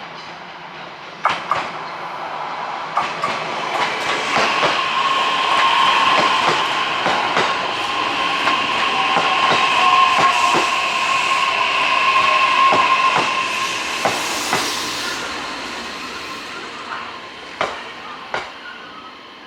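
JR East E131-500 series electric train running past, growing louder and then fading away, with wheels clacking over rail joints and a steady high whine.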